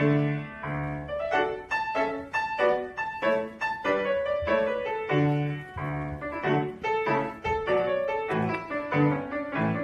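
Solo piano playing a lively piece: a melody of short notes over a bass note repeated in a steady rhythm.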